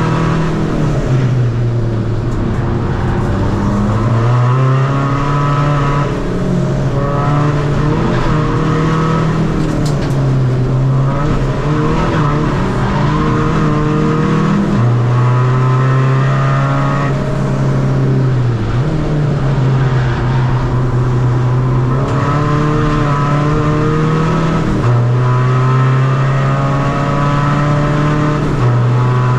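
Tuned 2.0 common-rail turbo-diesel engine of a Seat Ibiza FR driven hard on a race circuit. Its note climbs with each burst of acceleration and drops back at gear changes and lifts, over and over.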